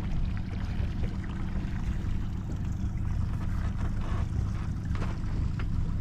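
Small boat's motor running steadily, a low hum with water rushing alongside the hull.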